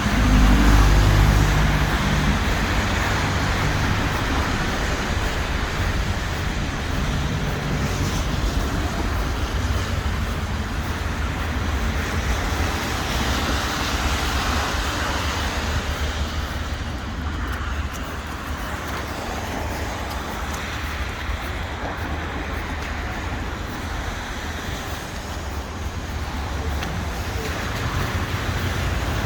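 Street traffic: a steady wash of cars passing, engines and tyres, with a louder low rumble about a second in as a vehicle goes by close.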